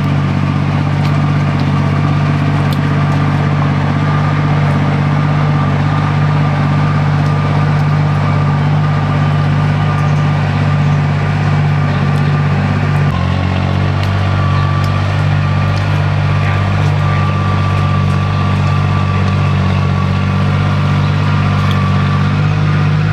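A vehicle engine running steadily, its note changing abruptly about thirteen seconds in.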